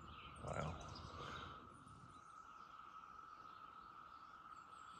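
Cicadas droning in a faint, steady chorus: one unbroken buzz, with a few faint bird chirps over it.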